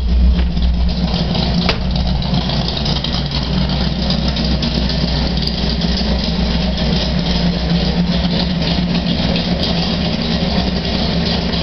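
The 1967 Shelby GT500E Super Snake's V8 idling steadily.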